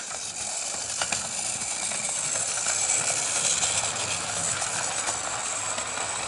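OO gauge Mainline Railways Class 2251 0-6-0 model steam locomotive running on the track: a steady whir of its small electric motor and wheels on the rails, with one sharp click about a second in.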